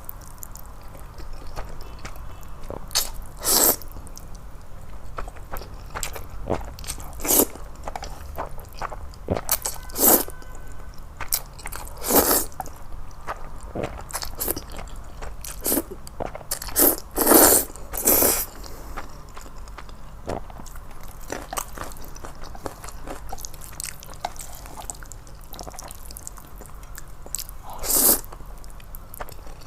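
Close-miked eating sounds: chewing and wet mouth smacks while eating sauced noodles, with irregular sharp clicks and a few longer bursts about two-thirds of the way in.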